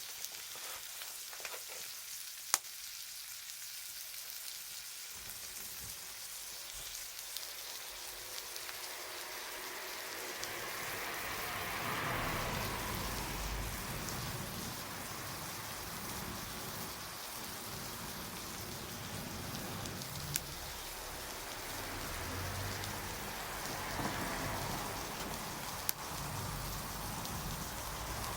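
Campfire crackling and hissing, with a few sharp pops from the burning wood.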